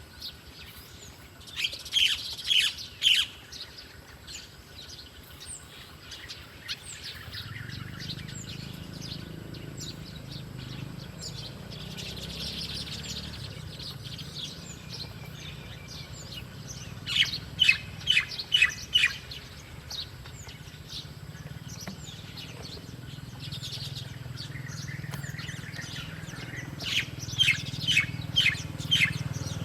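Wild birds chirping, with three loud bursts of quick repeated chirps, each four to six notes: one near the start, one in the middle and one near the end, and fainter calls between them. A low steady rumble runs underneath from about a quarter of the way in.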